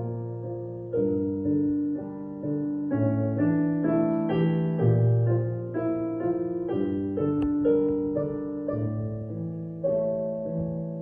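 Solo piano playing a lyrical piece: melody notes and chords struck and left to ring over a low bass line.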